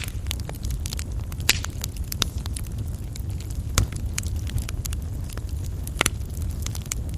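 Coal fire burning in a fireplace: a steady low rumble of flames with frequent small crackles and three sharper pops.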